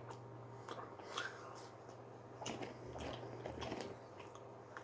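A person chewing crinkle-cut french fries close to the microphone: soft crunches and wet mouth clicks, over a faint steady hum.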